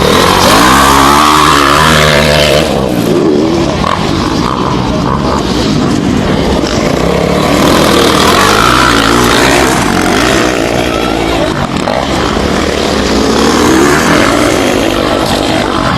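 Motocross bike engines revving hard and passing, their pitch climbing and falling again several times as the riders accelerate and back off.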